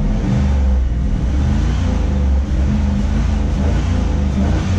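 Chevrolet Camaro engine running at a steady idle with its air filter off, heard from inside the car's cabin.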